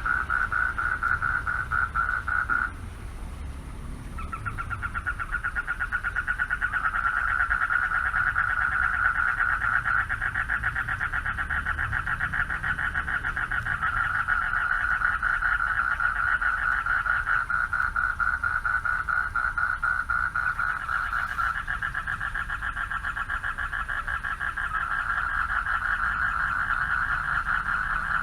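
A chorus of male frogs calling for mates from a pond, a fast continuous pulsing trill. It breaks off briefly about three seconds in and starts again a second or so later. A steady low rumble runs underneath.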